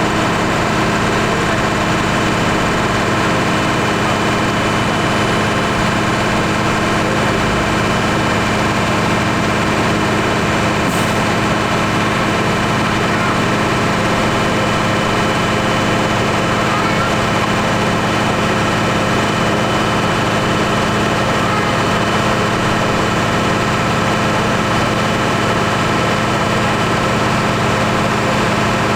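New Holland T7.170 tractor's diesel engine running at a steady speed on a PTO dynamometer, with no change in pitch or level.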